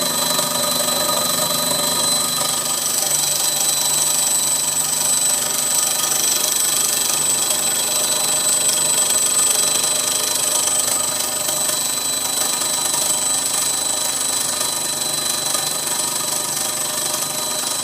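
Homemade model steam engine fired by a methylated-spirit burner, running at speed with its piston driving the flywheel: a loud, steady, high-pitched mechanical buzz.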